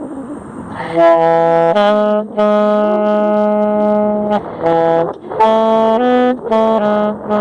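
Saxophone improvising in a low register. A noisy, breathy rush comes first, and about a second in the held notes start. One long note lasts about two seconds, then shorter notes follow, broken by brief gaps.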